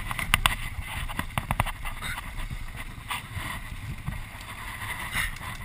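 Single-cylinder dirt bike engine running at low revs, with wind buffeting the microphone. A quick run of sharp knocks and clicks comes in the first second and a half.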